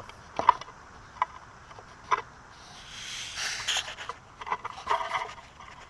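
Hand work on a car's body: several short, sharp clicks and knocks, with a scraping noise lasting about a second, a little after three seconds in.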